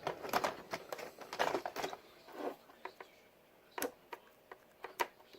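A screwdriver scraping and clicking against a small RC car electric motor, working at a motor that seemed locked up and would not turn over. There is a dense rattle of scrapes and clicks for the first two and a half seconds, then a few single sharp clicks.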